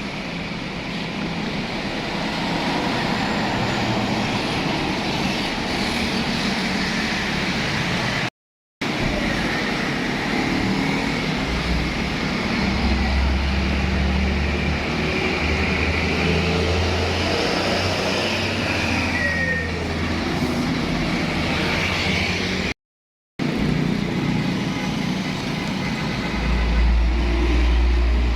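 Road traffic with heavy trucks passing close by, their diesel engines giving a deep rumble that swells about twelve seconds in and again near the end. The sound cuts out completely twice, briefly.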